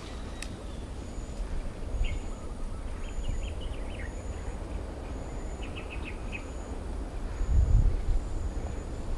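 Birds chirping in short bursts over a faint high note that repeats about once a second, with a low rumble that swells near the end.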